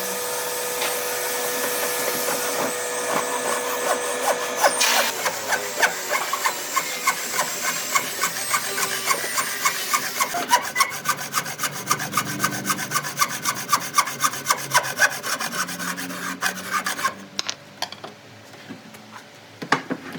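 Solid wood being worked by hand with rapid repeated rasping strokes, about two to three a second, that stop near the end. A steady hum runs under it for the first few seconds and cuts off about five seconds in.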